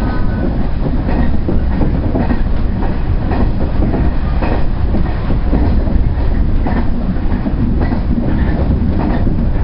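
JR Central 119 series electric train running along the line, heard inside the driver's cab: a steady rumble of motors and wheels, with repeated clicks of the wheels passing over rail joints.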